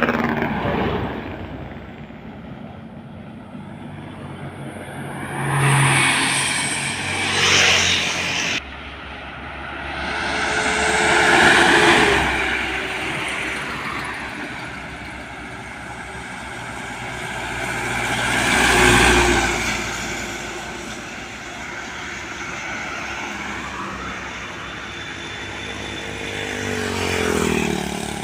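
Trucks driving past on a road one after another, each swelling and fading as it goes by. Near the end one passes close with its engine note falling.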